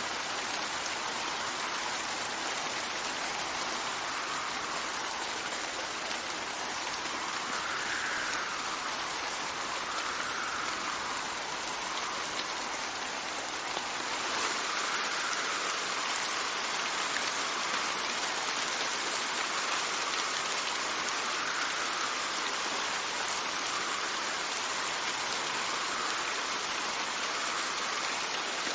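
Steady rain falling, with wind rising and falling in soft gusts every few seconds.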